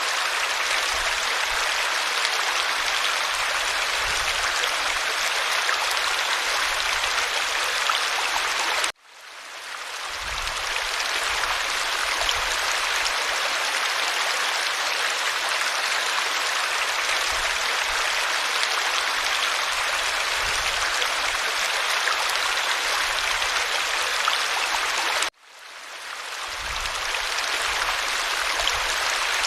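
Creek water flowing steadily over stones. The sound cuts out abruptly twice and swells back in over a second or two each time.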